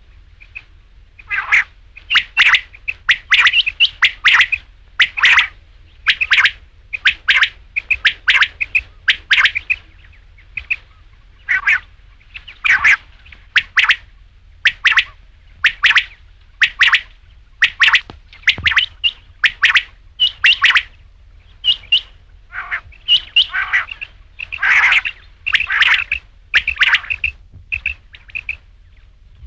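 Quail calling: short, sharp, high chirping notes repeated over and over in quick groups of two or three, with hardly a pause.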